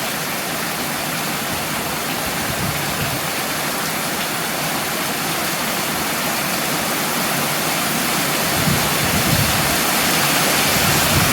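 Heavy rain pouring down in a thunderstorm, a steady loud hiss that slowly grows louder. About eight seconds in, a low rumble joins it.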